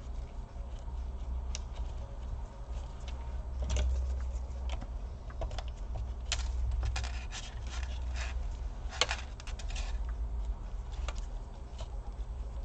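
Small irregular clicks, taps and light scrapes of hands and tools working screws and parts back into a laptop during reassembly, over a steady low hum.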